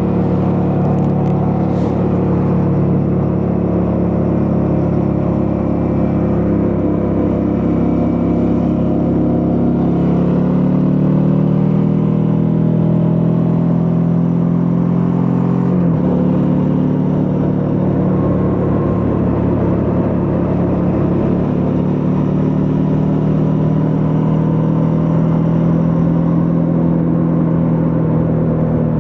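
Suzuki V-Strom 650's V-twin engine running under way. Its note rises about a third of the way in, breaks sharply and drops about halfway through, then holds fairly steady.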